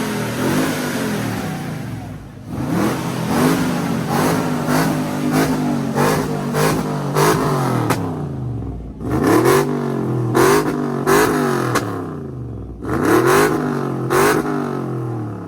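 A car engine revved hard over and over at a rev battle: a quick run of throttle blips about twice a second, then several bigger revs that climb and drop back, each with a gap between them.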